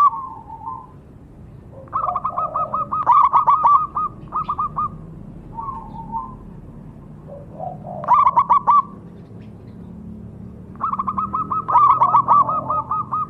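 Zebra dove (perkutut) cooing: bouts of rapid, short, evenly spaced coo notes, about two seconds in, about eight seconds in, and a longer run from about eleven seconds on, with softer lower notes between them.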